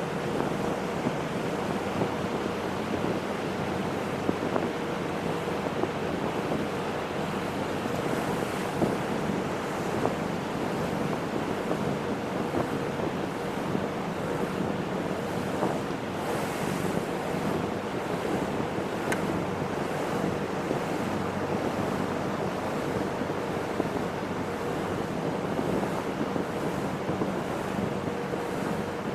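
Water rushing past a moving boat and wind buffeting the microphone, over a steady low engine hum.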